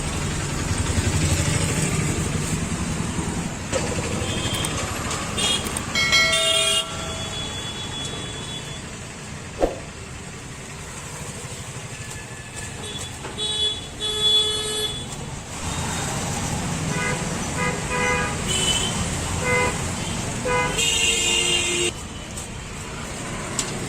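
Passing road traffic with an engine rumble in the first few seconds, and vehicle horns honking repeatedly: short beeps and toots in several bursts, the busiest run of them in the second half.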